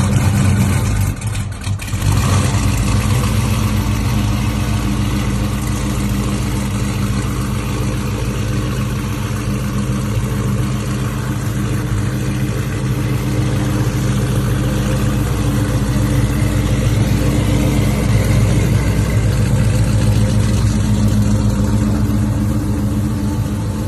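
Muscle car engine idling steadily, with a brief drop in level about a second in.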